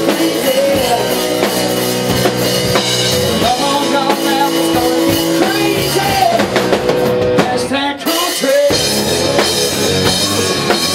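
Loud live country-rock band playing, drum kit prominent under guitar and bass, with a short break in the low end about eight seconds in.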